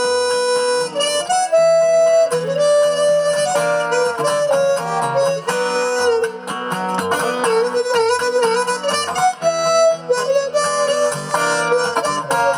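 Instrumental break of a song: a harmonica plays a melody over strummed acoustic guitar and a steady bass line.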